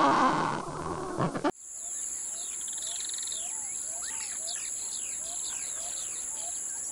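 Humboldt penguins braying for about the first second and a half, cut off abruptly. Then small birds chirping in many short falling notes, with a repeated short low note about twice a second and a steady high-pitched tone behind them.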